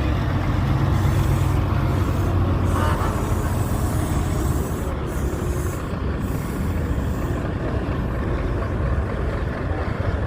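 Heavy truck engine running with a steady low rumble, a little louder in the first three seconds and then easing slightly.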